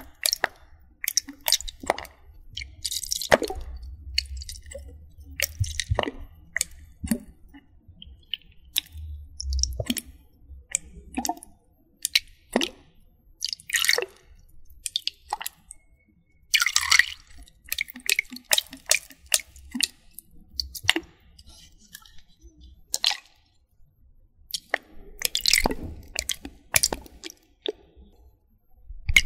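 Irregular wet squishing and dripping sounds with scattered sharp clicks, made as water ASMR triggers.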